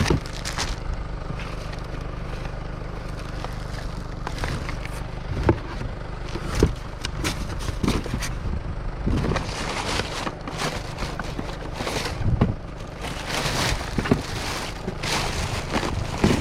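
Items being handled and moved in a kerbside rubbish pile: scattered knocks, scrapes and rustling, busier in the second half, over a steady low rumble.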